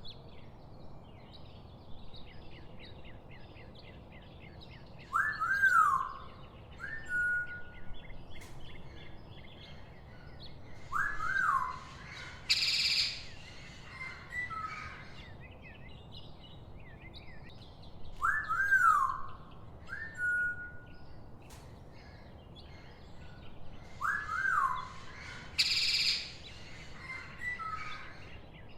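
Birds calling: pairs of clear whistles that rise and fall and short harsh bursts, over a steady background of many small chirps. The same sequence comes round twice, about 13 seconds apart, like a looped soundscape.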